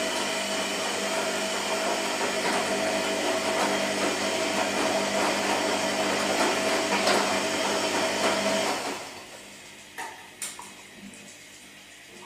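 Washing machine running with a steady whining motor hum. About nine seconds in it drops off quickly to a faint hum, followed by two sharp clicks.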